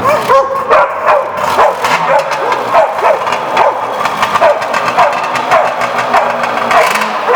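A dog barking over and over, roughly twice a second, with an engine running low underneath.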